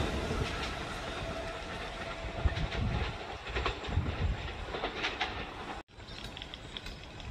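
Train running on the rails, with a steady rumble and a few sharp clicks of wheels over rail joints. The sound breaks off abruptly about six seconds in, and a quieter background follows.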